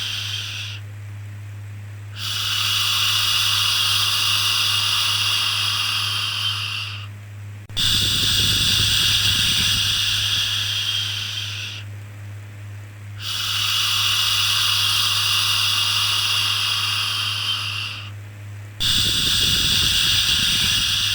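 Repeated long shushing 'shhh' sounds for soothing a baby, each held about four to five seconds with a short break between, over a steady low hum.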